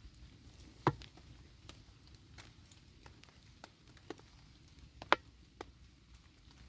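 Scattered, irregular sharp taps and clicks over a faint steady background, with two louder ones about a second in and just after five seconds.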